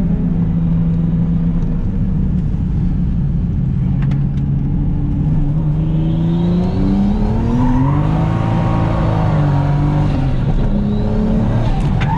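Turbocharged straight-six engine of a Toyota JZX100 Mark II under track driving, heard from inside the car. It runs steadily, dips about four seconds in, then revs up to a peak around eight seconds in and falls away again.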